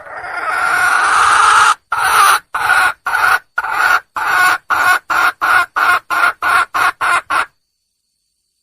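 Junglefowl hen calling to attract a male: one long, swelling call, then a run of about fourteen short calls that come quicker and shorter until they stop.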